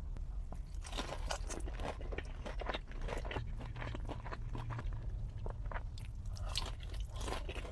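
A person biting and chewing crunchy fried chicken tenders close to the microphone. Irregular crisp crunches start about a second in and keep going, over a steady low hum.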